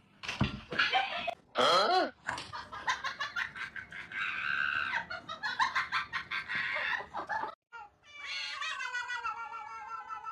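Animal calls in quick succession: a dense run of short, rapid calls, then, after a brief break near eight seconds, one long wavering call.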